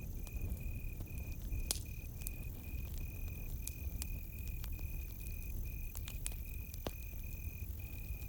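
Campfire crackling with scattered sharp pops of varying strength, over a cricket chirping in an even pulsed rhythm of about three chirps a second and a steady low rumble.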